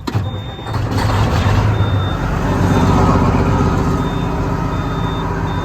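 Semi-truck diesel engine starting up, building over the first couple of seconds and settling into a steady idle, with a warning buzzer beeping on and off.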